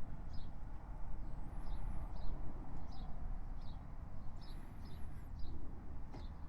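Birds chirping: short calls repeated about twice a second, with a couple of higher warbling phrases, over a low rumble.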